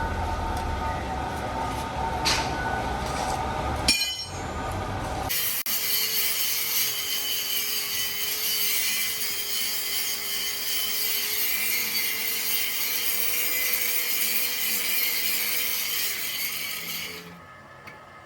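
A power tool working on a steel truck rim. About five seconds in, the sound changes abruptly from a deep rumbling noise to a high, hissing grind with a wavering hum, which stops about a second before the end.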